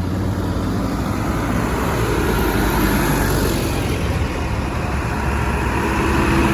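Modern tractors' diesel engines running with a steady drone, the engine noise swelling slightly towards the end.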